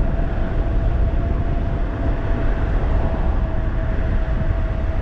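Riding at speed on a 1500-watt e-bike: heavy wind rumble on the microphone, with the motor's thin whine holding one steady pitch throughout.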